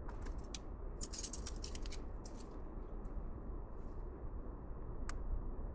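Light clicks and rattles of small metal parts and tools being handled at a workbench, with a dense flurry about a second in and a single sharp click near the end, over a steady low hum.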